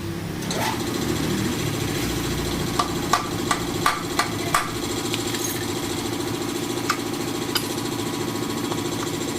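Motorcycle engine starting with a brief rising rev, then settling into a steady idle. Over the idle comes a quick run of sharp metallic knocks about three to four and a half seconds in, and two more single knocks a few seconds later.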